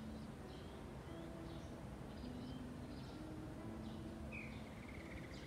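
Small birds chirping in short, scattered calls, with a longer trilled call about four and a half seconds in, over a low steady background hum.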